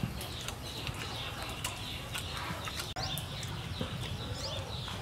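Outdoor bird calls: short high chirps repeating throughout, over a steady low rumble, with a few light clicks.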